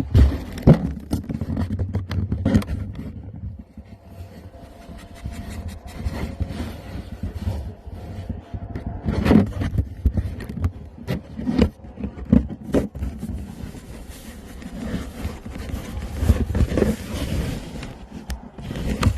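Beagles chewing and scraping at a cardboard box, with irregular scrapes, rustles and knocks.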